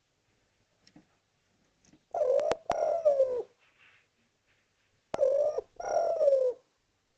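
Male spotted dove (derkuku) cooing: two calls about three seconds apart, each of two low coos that fall in pitch.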